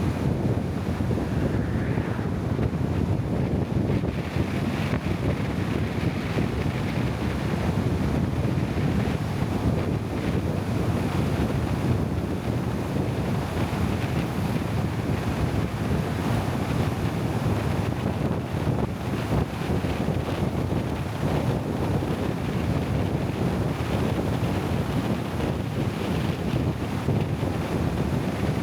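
Steady low rumbling noise with wind buffeting the microphone, with no distinct events.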